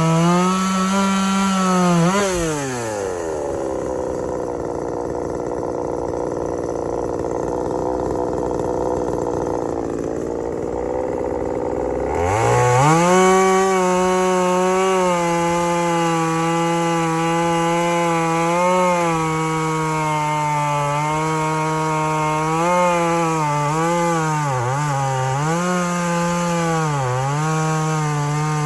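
A boost-ported 36cc Craftsman 2.2 two-stroke chainsaw runs at full throttle, drops to idle about two seconds in, and idles for roughly ten seconds. It revs back up about twelve seconds in and holds high revs, with the pitch dipping several times as the chain bogs under load cutting pin oak.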